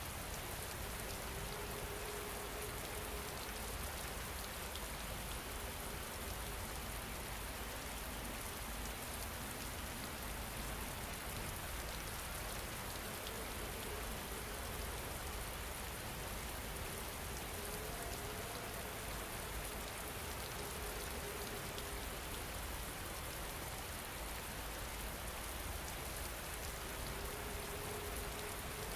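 Steady rain falling, an even hiss of drops without let-up. A faint soft held tone rises out of it a few times.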